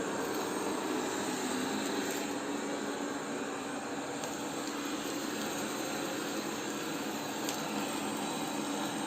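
Polaris PVCR 3200 IQ Home Aqua robot vacuum running: a steady whirring of the suction fan with a low hum, and a few faint clicks.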